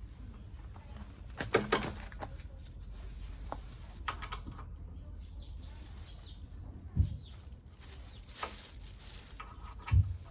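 Scattered clicks, short rattles and knocks of hand tools and small metal parts being handled while a scooter engine is stripped, with two dull thumps about seven and ten seconds in.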